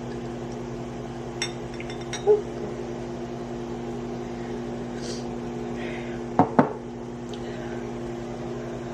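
Glassware and dishes being handled: a few light clinks, a knock a couple of seconds in, and two sharp clinks in quick succession about six and a half seconds in, over a steady low hum.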